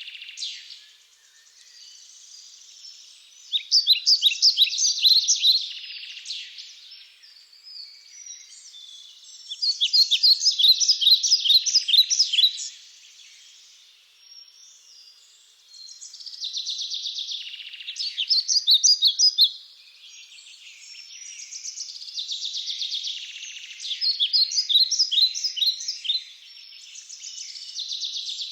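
Birdsong: a songbird repeats a fast run of sharp, high notes, each song lasting a few seconds and coming again every several seconds. A steady high hiss of background birds or insects fills the gaps.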